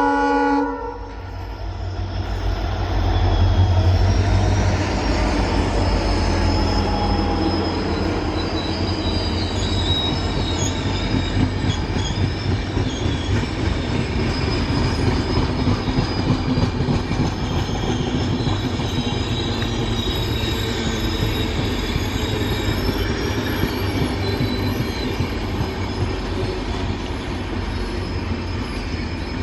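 Passenger train passing close by. A locomotive horn cuts off in the first second, and the locomotive goes by with a loud low rumble that peaks a few seconds in. Coaches then roll past with steady wheel rumble and a thin, high, wavering wheel squeal.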